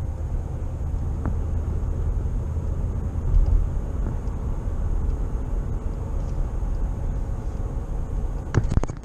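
Steady low rumble of road and engine noise from a car driving, heard from inside the cabin. A few sharp knocks near the end.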